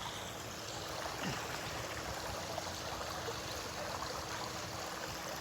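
Wind blowing steadily, an even rushing hiss with no gusts or breaks.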